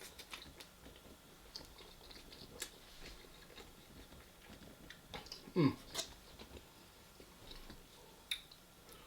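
A person chewing food quietly, with small wet mouth clicks. About halfway there is one brief sound that falls in pitch, followed by a sharper click.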